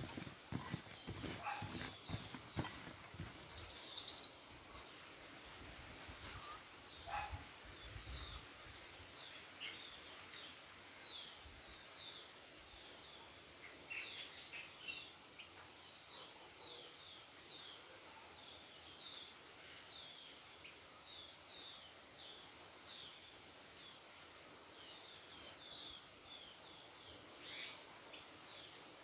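Faint background bird chirping: short, high calls repeated about twice a second, one louder call near the end. In the first several seconds there are knocks and scrapes from utensils and dough being handled.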